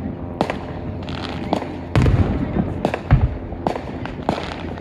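Fireworks going off: a string of sharp bangs, about seven of them, the two loudest about two and three seconds in, with crackling in between.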